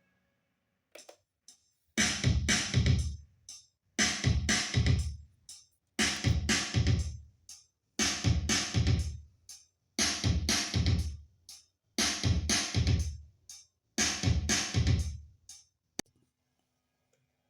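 Roland Juno-Gi synthesizer playing a drum-machine rhythm pattern. A two-second bar of drum hits repeats seven times, then stops with a click.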